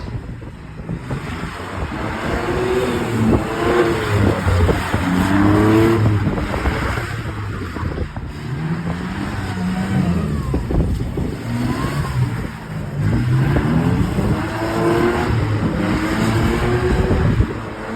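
Car engine revved hard again and again during a burnout, its pitch climbing and dropping every second or two over a steady rushing noise.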